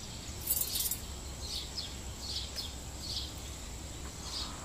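Outdoor birdsong: short, high chirps repeated about every half second over a quiet background, with one brief sharp noise about half a second in.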